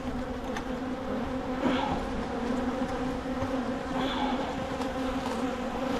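Honeybee colony buzzing in a steady hum around an opened hive, a late-season colony stirred up by the hive being disrupted.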